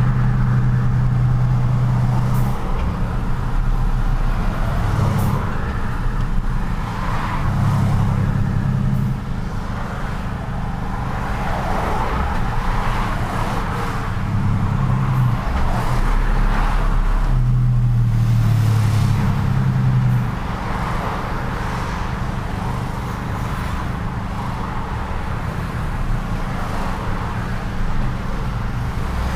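Truck engine running and road noise while driving in city traffic, the engine note rising and falling every few seconds.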